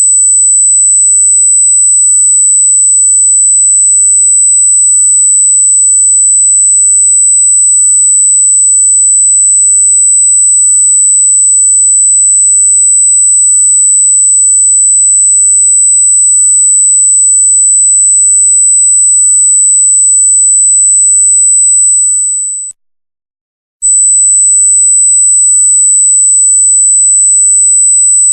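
A loud, steady, very high-pitched electronic tone held at one pure pitch. It fades out about three-quarters of the way through, stays silent for about a second, then comes back at full strength.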